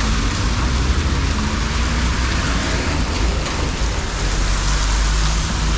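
Steady wind rush on the action camera's microphone with a low rumble from the Honda CBF1000FA motorcycle under way.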